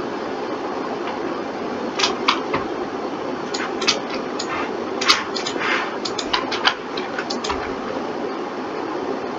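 Irregular sharp clicks of a computer mouse and keyboard, bunched between about two and seven seconds in, over a steady fan hum.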